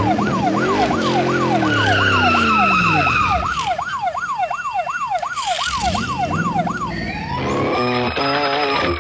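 Emergency-vehicle siren in a fast yelp, sweeping up and down about three times a second, with a lower tone swelling and fading beneath it. It stops near the end, and guitar music starts.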